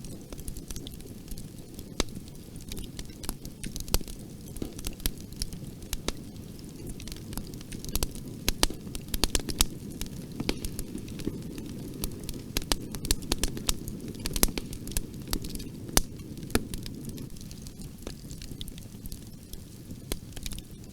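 Bonfire burning: a steady low rumble of flames with frequent sharp crackles and pops, busiest in the middle stretch.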